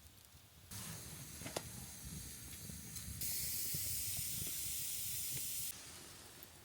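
Wood fire burning with sharp crackles and a steady hiss. The hiss grows louder about three seconds in and drops away sharply a few seconds later.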